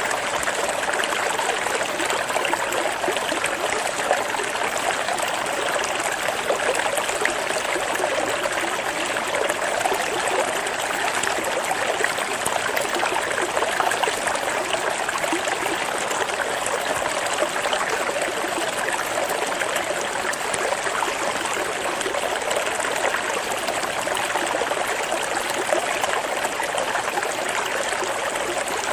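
Flowing water babbling and trickling steadily, with no break or change, played as a water-sound therapy track for a songbird.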